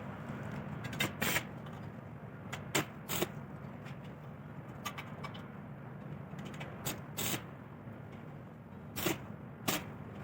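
Sharp metal clinks and knocks of bicycle parts or tools being handled on a workbench, in pairs about a third of a second apart, four times, over a steady low hum.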